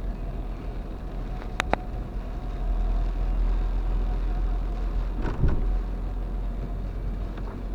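Low, steady rumble of a vehicle running, with two quick clicks about a second and a half in and a short knock about five seconds in.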